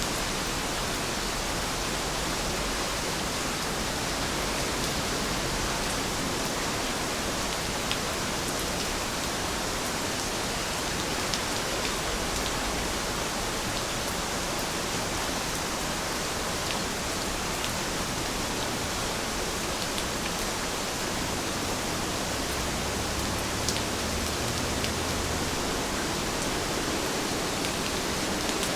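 Heavy rain falling in a steady, even hiss, with a few faint drop ticks scattered through it.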